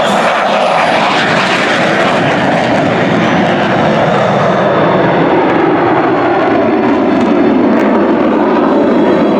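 Loud jet engine noise from an F-15 Eagle's twin turbofans as the fighter passes, its pitch falling over the first few seconds.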